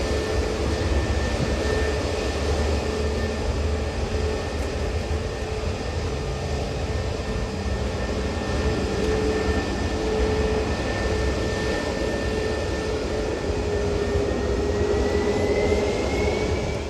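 Jet airliner engines running loudly and steadily, a dense rush of noise with a steady whine over it that rises in pitch near the end.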